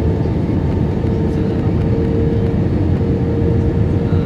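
Steady cabin noise inside an Airbus A320 with IAE V2500 engines on its descent to land: a deep, even rush of engine and airflow, with a steady humming tone over it.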